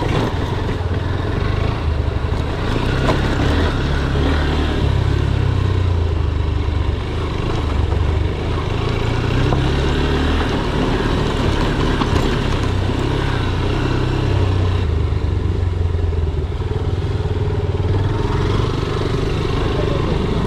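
Single-cylinder motorcycle engine running while riding, the engine note rising and easing with the throttle.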